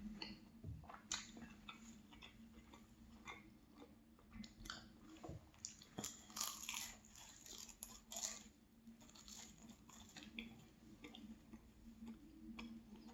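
A person biting and chewing flaky pastry: faint crunching and crackling in irregular short bites, busiest around the middle.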